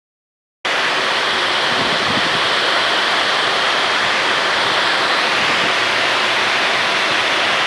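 Heavy rain pouring down, a steady dense hiss that starts abruptly about half a second in.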